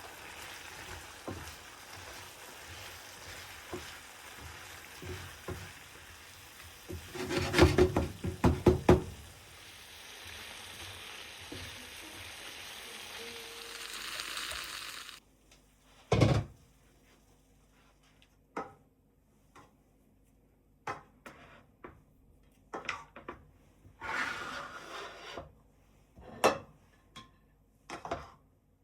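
Kitchen handling sounds: a steady hiss with a burst of clattering about eight seconds in. Then, after an abrupt change to a quiet room, scattered knocks and clinks of utensils and dishes.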